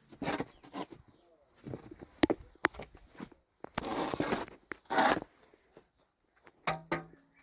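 Irregular rustling and crunching bursts with a few sharp clicks, the noise of people moving about and handling things.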